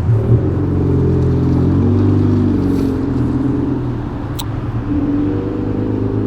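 Sportbike's inline-four engine running steadily, its pitch drifting slightly, with one sharp click about four and a half seconds in.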